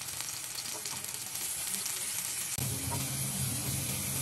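Minced garlic sizzling in hot oil in a nonstick frying pan, stirred with a wooden spatula. A low steady hum comes in suddenly about two and a half seconds in.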